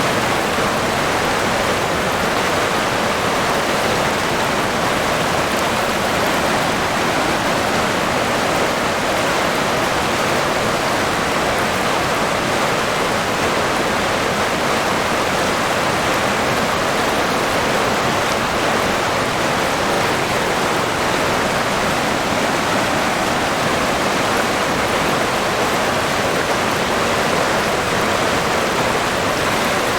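River water flowing steadily: a constant, even rush of water.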